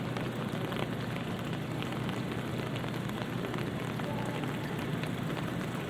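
Light rain falling on a city street: a steady even hiss with scattered faint drop ticks, over a low steady hum of the city.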